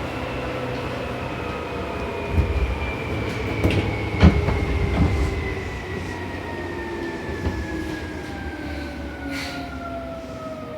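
Seibu New 2000 series electric train heard from inside the car while braking into a station: a whine from the traction equipment falls slowly in pitch as it slows, with a few clacks from the wheels over rail joints.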